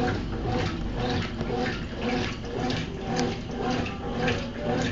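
Consul CWC08 top-loading washing machine washing a load: water swishes back and forth in a steady rhythm, about twice a second, over the steady hum of the machine's motor.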